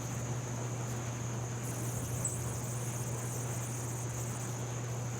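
Insects chirring steadily in a high, even drone over the constant rush of a flowing river.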